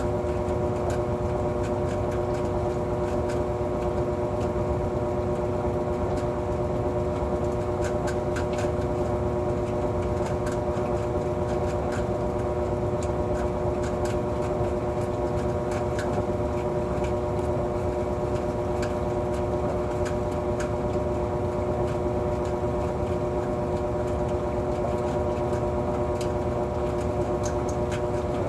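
Whirlpool washing machine spinning a heavy load of towels at steady full speed: a constant motor whine over a low rushing hum, with faint scattered ticks.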